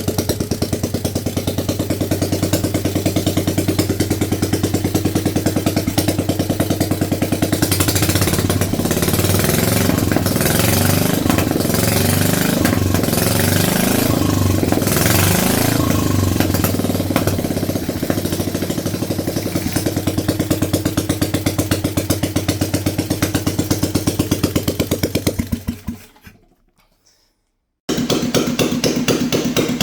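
BMW R35's single-cylinder four-stroke engine running on test, revved up and down several times, then shut off and dying away; after a short silence it is abruptly running again.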